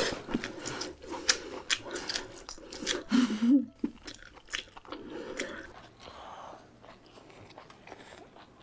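Close-miked chewing and biting of cooked lobster meat: wet mouth clicks and smacks, loudest in the first four seconds and quieter after, with a brief low hum a little after three seconds in.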